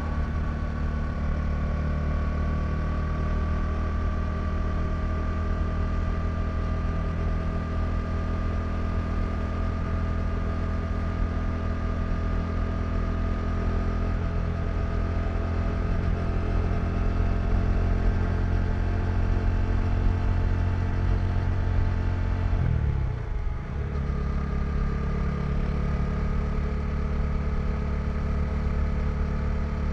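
KTM 390 Duke's single-cylinder engine running steadily under way, its note drifting slowly lower. About three-quarters of the way through, the engine sound dips briefly, then settles back to steady running.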